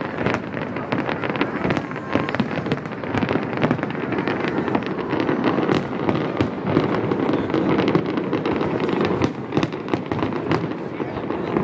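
Aerial firework shells bursting in a large display: a dense, unbroken string of bangs and crackles with no pauses.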